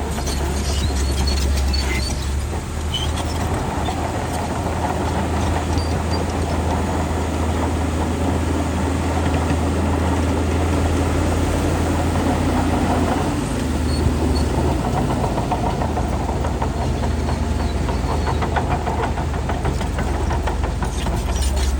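Crawler bulldozer's diesel engine running steadily with a deep drone, with the clanking of its steel tracks in the first few seconds and again near the end.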